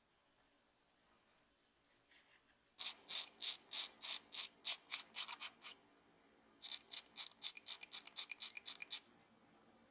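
Two runs of quick, evenly spaced scraping strokes, about five a second, each run lasting two to three seconds with a short pause between.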